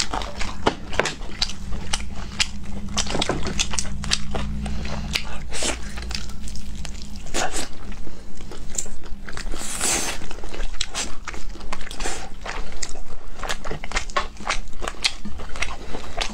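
Close-miked eating of glazed chicken wings: many wet chewing clicks and biting crunches. A low hum runs under the first five seconds, and a short breathy noise comes about ten seconds in.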